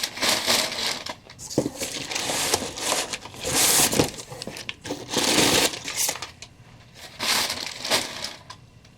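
A large cardboard shipping box being opened and its packing handled, in a series of irregular rustling, scraping and crinkling bursts.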